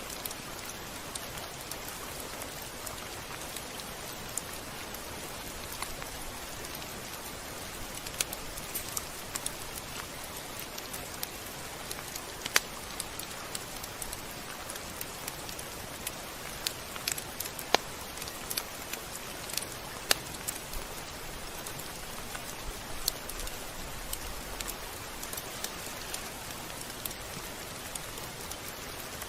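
Rain falling steadily: an even hiss dotted with scattered sharp drop ticks, a few louder ones about halfway through.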